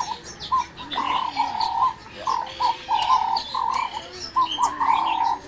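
Many aviary birds calling at once: a quick string of short, repeated calls at one middle pitch, with scattered higher chirps over them.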